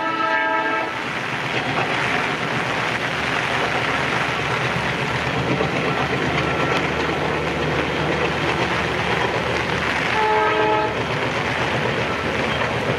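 Tejas Express train passing with a steady rush of noise from the rails. The locomotive horn is sounding at the start and stops about a second in, then sounds again briefly about ten seconds in.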